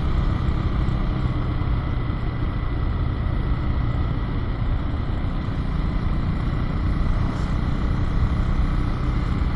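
Husqvarna road motorcycle ridden at a steady pace: the engine runs with wind and road noise, unchanging, and a faint steady high whine sits over it.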